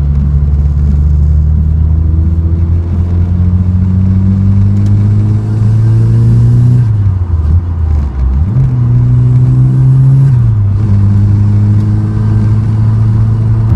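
Ford Escort RS Turbo's 1.6 CVH turbocharged four-cylinder engine pulling hard. The revs climb steadily for about seven seconds, fall and rise again at a gear change, then drop at a second upshift about ten seconds in. The engine is newly rebuilt and still being run in.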